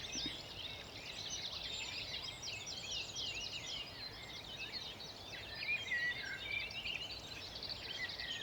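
Dawn chorus: many songbirds singing together, a dense run of overlapping high chirps, whistles and trills.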